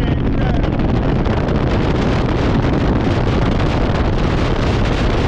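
Heavy wind rush over the microphone of a camera on a moving motorcycle, steady and loud, with the motorcycle's engine running underneath.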